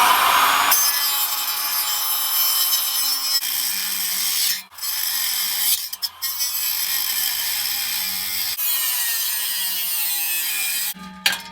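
Grinder cutting through seized exhaust flange bolts: a continuous high, hissing grind that stops briefly twice and changes note once, with a few sharp clinks near the end.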